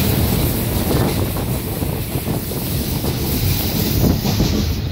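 A moving passenger train running along the track, a steady rumble and rush of noise, with wind buffeting the microphone.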